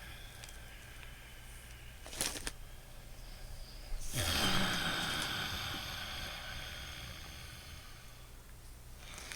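Loud, noisy breathing through the nose: a short sharp sniff about two seconds in, then a long, strong breath that starts suddenly about four seconds in and slowly fades away.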